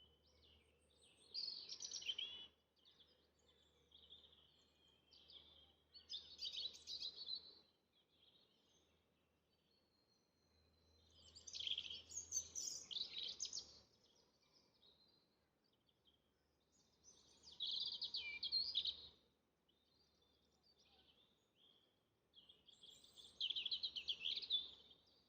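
A songbird singing in woodland: five short, high-pitched song phrases a few seconds apart, over a faint low hum.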